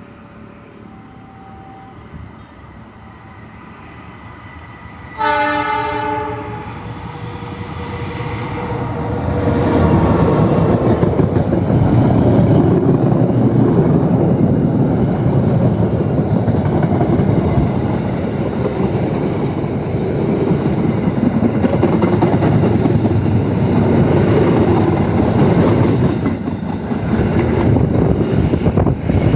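A KAI CC206 diesel-electric locomotive sounds its horn in one blast of several tones lasting about three seconds. A few seconds later the train passes close by, a loud steady rumble with wheels clattering on the rail joints.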